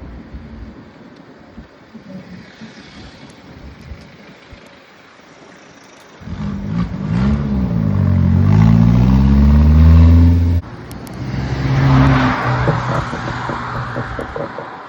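A motor vehicle passes close by, its engine coming in suddenly about six seconds in with a pitch that rises and falls. It cuts off abruptly near eleven seconds, then swells again with tyre hiss. Light wind and road rush is heard before it.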